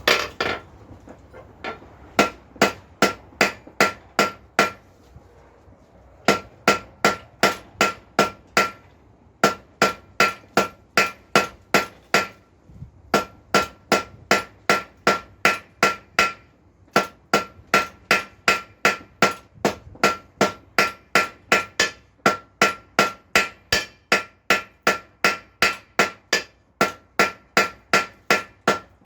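Hand hammer striking hot steel on an anvil while a nail is forged, in steady runs of about two to three blows a second, each with a bright ringing ping from the anvil. The runs are broken by several short pauses.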